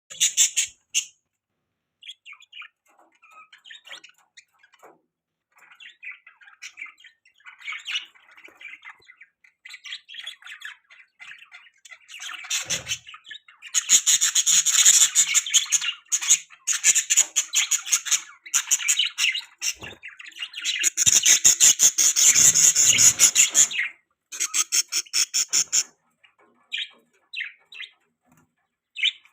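Budgerigars chirping and chattering: scattered soft chirps at first, then loud stretches of fast, rattling chatter from about halfway in, which die back to a few chirps near the end.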